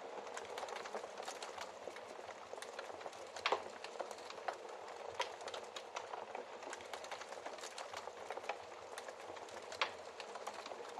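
Wood fire crackling steadily in a fireplace, with frequent small snaps and a couple of louder pops, about three and a half seconds in and again near the end.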